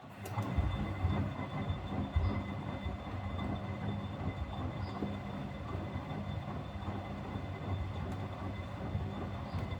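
Miele W761 washing machine drum turning during a wash: the motor starts, runs with a low rumble, a faint steady whine and irregular knocks for about nine and a half seconds, then stops.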